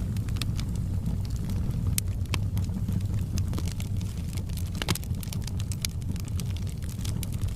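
Bonfire burning with a steady low rumble of the flames and frequent sharp wood crackles and pops.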